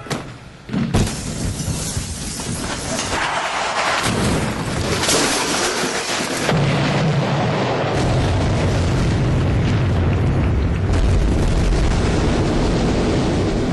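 A sharp bang about a second in, then a large audience applauding and cheering, loud and distorted on the recording, growing louder about six seconds in.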